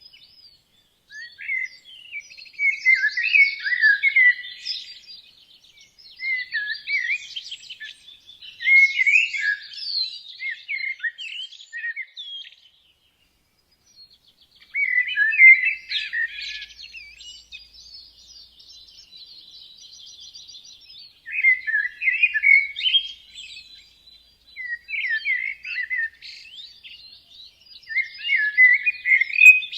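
Songbirds singing a series of short, varied chirping phrases, with a brief silence about halfway through and a thin, higher trill after it.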